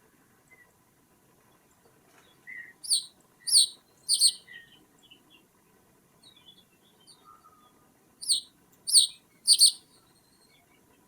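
A bird giving sharp, short falling call notes in two groups of three, about five seconds apart, with faint soft chirps between them.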